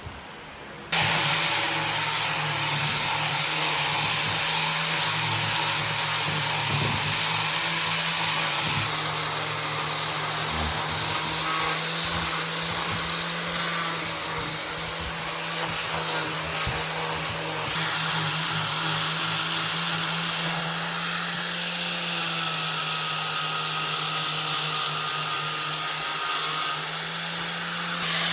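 An electric power tool starts abruptly about a second in and runs steadily, a motor hum under a constant hiss of cutting or abrading wood.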